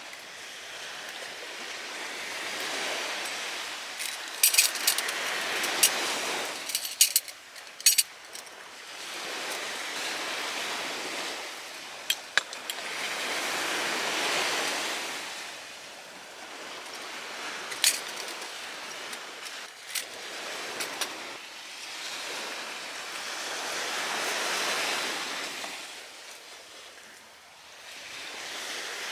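Waves washing onto the shore, swelling and fading every five or six seconds, with scattered sharp clinks and clicks, most of them between about four and eight seconds in.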